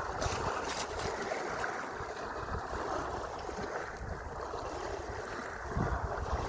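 Sea water washing and rushing in a steady noise, with low buffeting of wind on the microphone that swells near the end.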